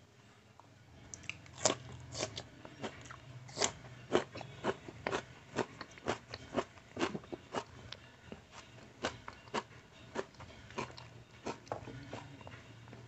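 Close-miked chewing with sharp crunches, about two a second, as a person eats with his mouth near the microphone.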